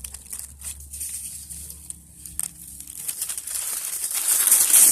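Rustling, crinkling noise: scattered crackles at first, becoming dense and louder about three and a half seconds in.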